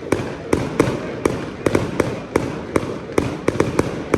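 Fireworks going off: a string of sharp bangs at uneven spacing, about three a second, over a steady hiss.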